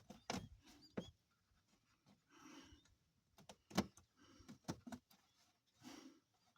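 Scattered sharp clicks and light knocks of hand tools and parts being worked on a truck's radiator and fan shroud, with soft rustling between them.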